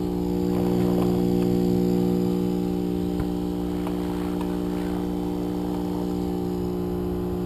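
A machine running steadily with an even, low-pitched hum. Faint clicks and knocks sound over it.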